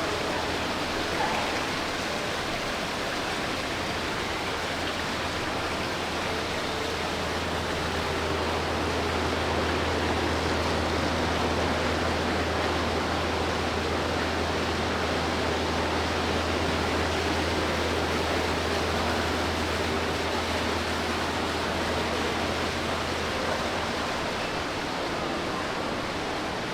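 Shopping mall ambience: a steady low hum under an even wash of noise, with no distinct events.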